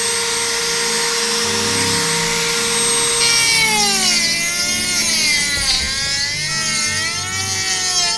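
Handheld rotary tool running with a steady high whine as its bit grinds a steel blade. About three seconds in, a loud squeal from the bit on the steel starts, its pitch wavering up and down, and it stops abruptly near the end.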